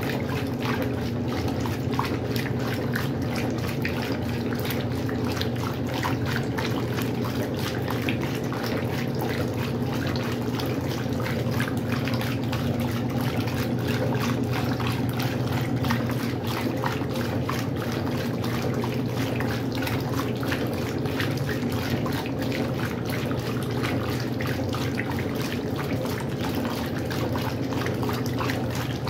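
Westinghouse washing machine running with water in the tub: a steady motor hum under continual sloshing and splashing of water.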